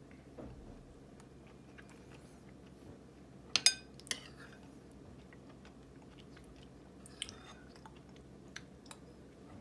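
A person chewing soft, thawed ripe persimmon pulp with deliberate wet mouth smacking. There are scattered small clicks and a couple of sharper, louder clicks a little after three and a half seconds in.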